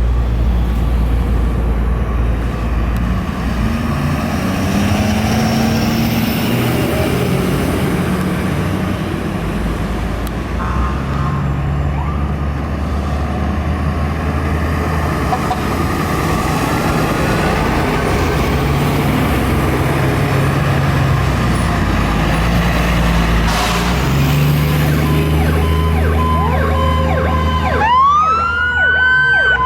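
Diesel engines of fire trucks running as they pass, with a steady low rumble whose pitch shifts. Near the end an electronic siren starts, sweeping up and down.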